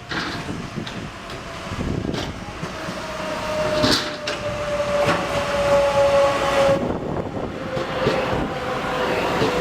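Train running past on the rails, growing louder, with scattered sharp wheel clicks and a steady whine that slowly falls in pitch.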